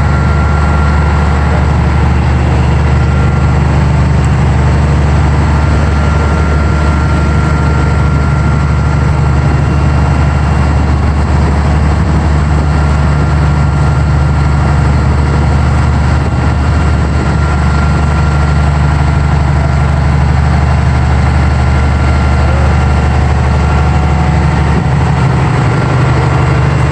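Ferry's engine running steadily: a loud, even low drone heard on board, with a thin steady whine above it.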